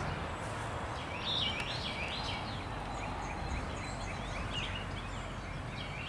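A bird calling in a run of short, quickly repeated high notes starting about a second in, with a few fainter notes later, over steady outdoor background noise.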